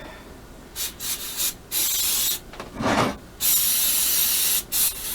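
Aerosol solvent can spraying in a series of short hissing bursts, then one longer spray of over a second near the end. A brief rubbing sound comes about halfway through.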